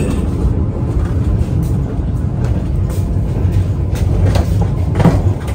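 Passenger train coach in motion, heard from inside: a steady loud rumble of the wheels on the track, with frequent knocks and rattles from the coach throughout.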